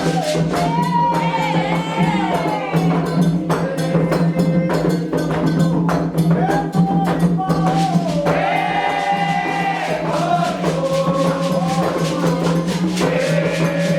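Candomblé xirê chant: voices singing a melodic line over steady, fast, evenly repeated percussion strikes.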